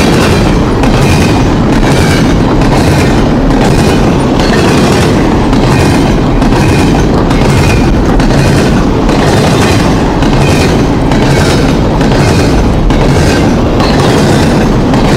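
Train cars rolling past with a steady rumble, the wheels clacking over rail joints about twice a second.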